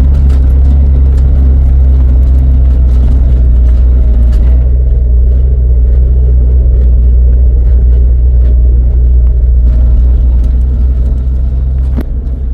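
A motor vehicle running, a loud steady low rumble, with a sharp click near the end as the level eases off slightly.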